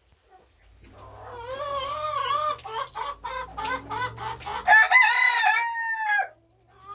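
Rooster crowing: a run of short rising-and-falling notes that builds into one long held note, which drops off at the end.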